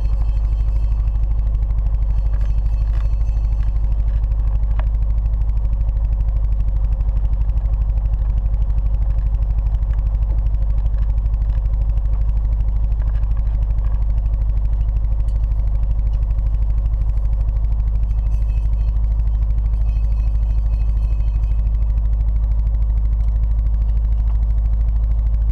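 Turbocharged Nissan 240SX KA24DE-T four-cylinder engine running steadily at a slightly raised idle, around 1200 to 1500 RPM, while it draws Seafoam engine cleaner in through a small vacuum line.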